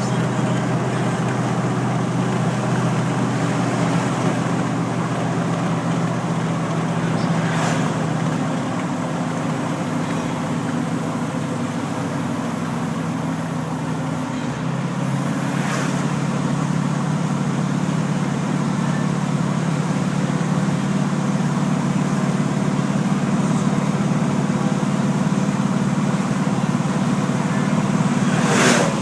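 Duramax turbo-diesel truck engine running steadily, with a high turbo whine that slowly falls and then climbs again from about halfway, where the engine note shifts. A few short clicks sound over it.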